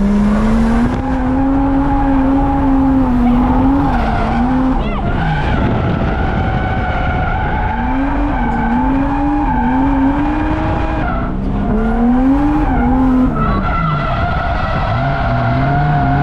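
Drift car's engine revving up and down as the throttle is worked through a slide, with tyres squealing and skidding. The engine note dips and climbs again several times.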